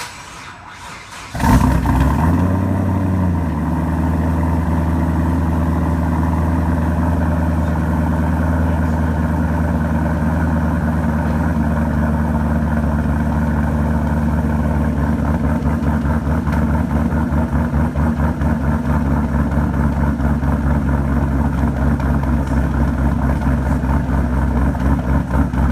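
Twin-turbo 2011 Camaro engine with an aftermarket JRE camshaft starting up about a second in, its revs flaring up and dropping back, then settling into a steady, choppy rough idle from the aggressive cam.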